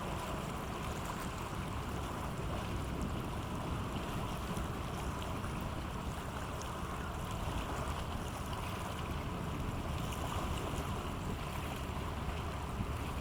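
Small coastal cargo ship passing close by, its engine making a steady low rumble over the wash of water and light wind.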